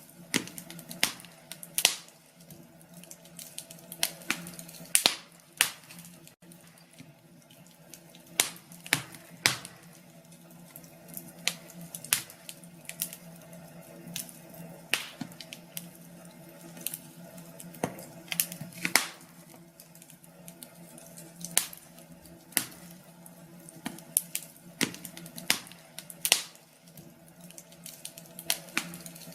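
Wood fire in a fireplace crackling, with irregular sharp pops and snaps, sometimes several in a second, over a steady low hum.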